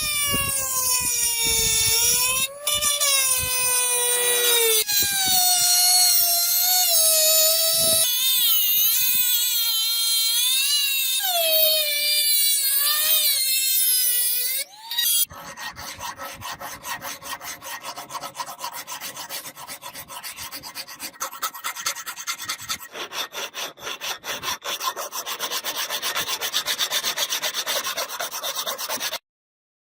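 Steel being worked with an abrasive. For about the first fifteen seconds there is a wavering squeal, then rapid, even rasping strokes that stop abruptly near the end.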